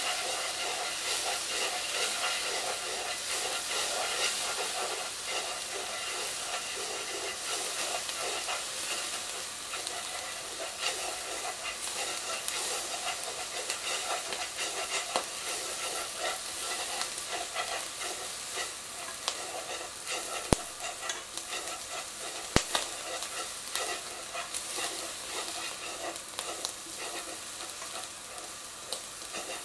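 Natto beans sizzling as they fry in butter in a nonstick frying pan, stirred and scraped around with chopsticks. Two sharp taps come about two thirds of the way through.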